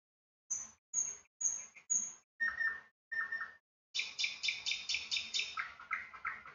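Small bird chirping: a few short, high chirps about half a second apart, then a quicker run of chirps from about four seconds in.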